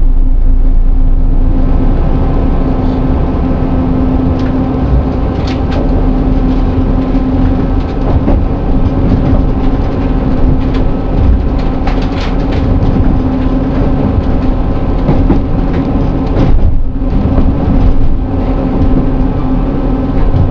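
Diesel passenger train running, heard from inside the carriage: a steady low engine drone and hum over the rumble of wheels on the rails, with scattered clicks and knocks from the track. The noise dips briefly about three-quarters of the way through.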